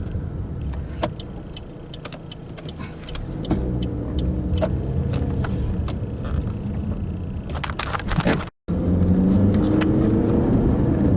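Road noise heard from inside a moving car: a steady low rumble of engine and tyres with scattered light clicks and taps. The sound cuts out briefly about eight seconds in, and afterwards the hum is louder, with a tone rising slowly in pitch as the car picks up speed.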